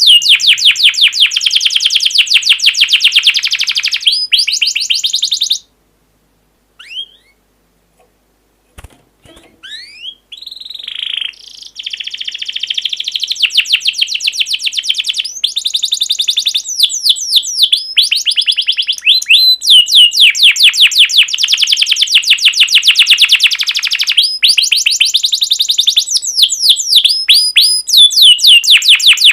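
Songbird singing loud, rapid trills of repeated high chirping notes, as used in a masteran training recording. The song breaks off about six seconds in, leaving only a few faint short whistles, and resumes about four seconds later.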